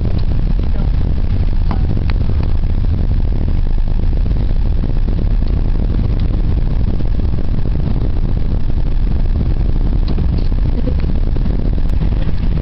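Strong wind buffeting the microphone: a loud, steady, low rumble with no pauses.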